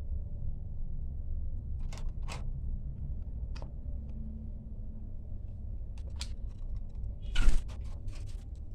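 A myna bird moving about in its cage: scattered sharp clicks and taps, with one louder knock near the end, over a low steady rumble.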